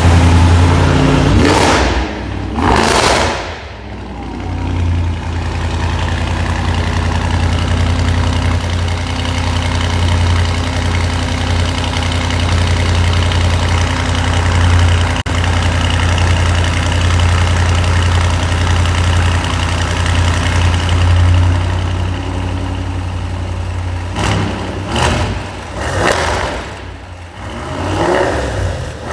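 Audi RS6's twin-turbo V8 running through a full Milltek exhaust system. Two quick revs in the first three seconds, then a long steady idle with a deep low hum, then three more sharp revs in the last five seconds, each falling straight back to idle.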